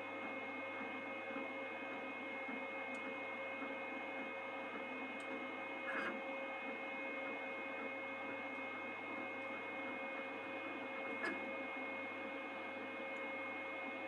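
Two Trees Sapphire Plus CoreXY 3D printer running a print: a steady hum of its stepper motors and fans, with a few fixed whining tones, and a couple of faint clicks about six and eleven seconds in.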